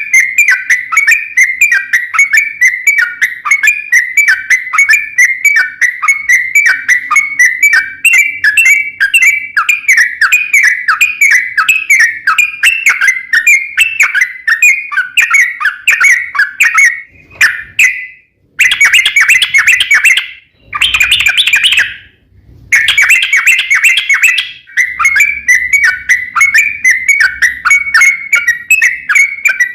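Sooty-headed bulbul (trucukan) singing a long, rapid, unbroken run of short chirping notes. The song drops out abruptly a few times about two-thirds of the way through, then resumes.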